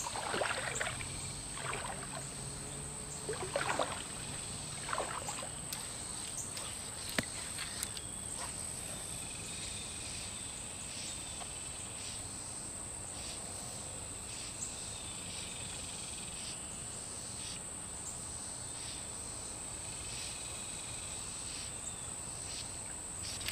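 Creek water splashing and sloshing several times in the first eight seconds, then quieter, over a steady high-pitched insect drone with faint repeated chirps.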